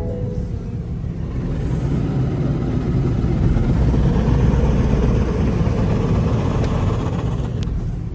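Mark VII ChoiceWash XT in-bay car wash machine working over the car, heard from inside the car as a steady rushing that swells in the middle and eases near the end.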